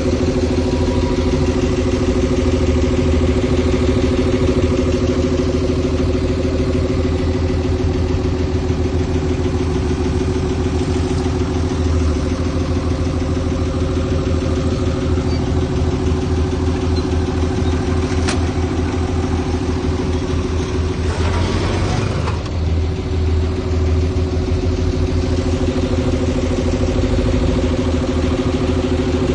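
Large diesel engine of heavy earthmoving machinery running steadily at a constant speed. A single sharp click comes about eighteen seconds in, and a brief burst of noise a few seconds later.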